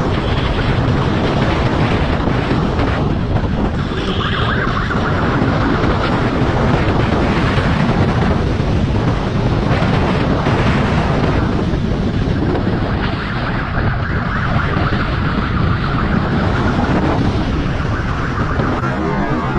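Loud, steady wind buffeting on the microphone over vehicle noise.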